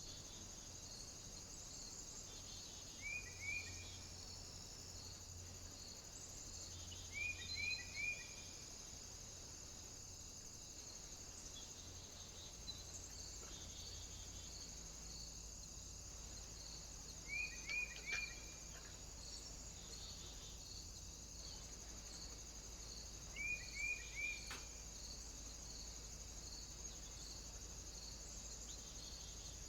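A bird calling in quick groups of two or three short rising chirps, repeated every several seconds, over a steady high-pitched hiss with faint regular ticking.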